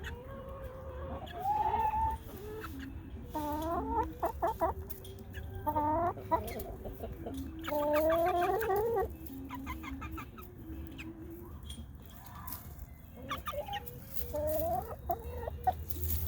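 Chickens calling: about five short runs of pitched calls that rise in pitch, with quieter clucking between.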